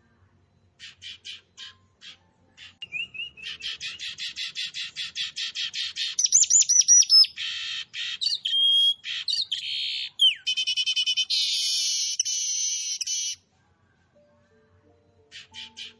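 A small bird singing a varied song: a few scattered chirps, then a fast run of repeated notes, whistled notes sliding up and down, and a long rapid trill that stops a few seconds before the end. Chirping starts again near the end.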